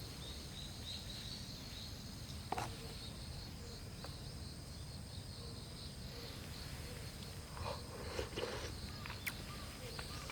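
Insects chirping in a steady, high, pulsing trill over a low background rumble. There is a sharp click about a quarter of the way in and a few rustling knocks near the end.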